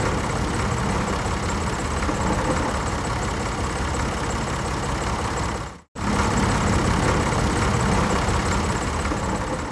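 An engine running steadily, in two stretches separated by a sudden cut to silence about six seconds in.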